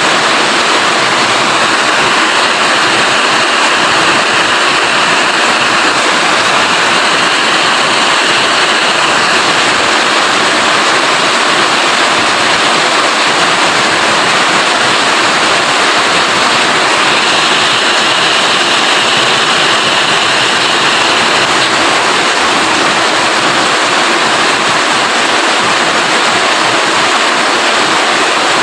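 Heavy rain falling steadily: a dense, even hiss with no single drops or other sounds standing out.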